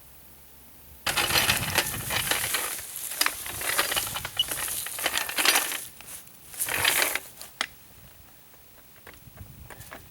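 Metal parts rattling and scraping in a long loud burst, then a shorter second burst, followed by a few light clicks near the end.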